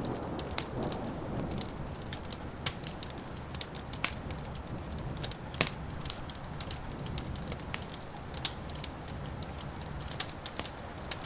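Wood fire crackling, with frequent sharp, irregular pops and snaps over a steady low rumble. The tail of a thunder rumble fades out in the first second.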